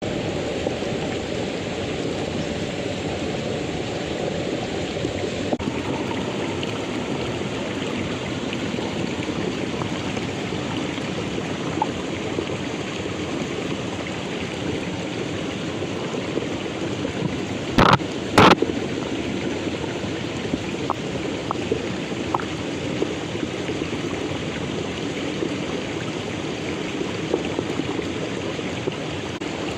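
Mountain stream water rushing steadily over its bed. About eighteen seconds in, two sharp knocks sound close together, the loudest thing heard.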